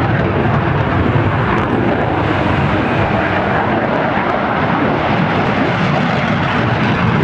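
Aircraft engine noise from an airplane in flight, a loud steady rush that does not rise or fall.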